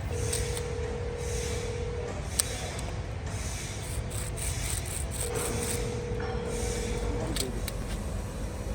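Wood lathe running with a low, steady hum, with hissing from a turning tool cutting the spinning wood. A steady whine sounds twice, about two seconds each time: at the start and again midway.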